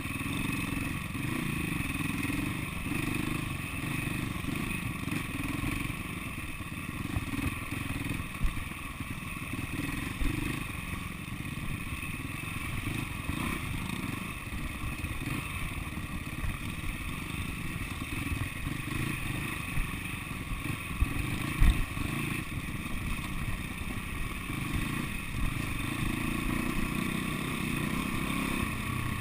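Single-cylinder four-stroke engine of an SWM 300RS enduro motorcycle running at low trail speed, heard from on board the bike, its note rising and falling with the throttle. Occasional knocks and clatter come through, the sharpest about 21 seconds in.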